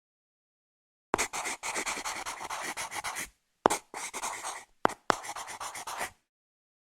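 A drawing tool scratching on paper in quick back-and-forth strokes. It comes in three bouts, the first and longest starting about a second in, and each begins with a sharp click.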